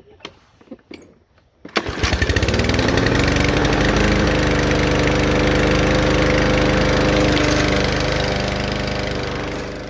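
Small gasoline engine, freshly cleaned carburetor, catching about two seconds in after a few knocks, speeding up to a steady even run and then dying away near the end.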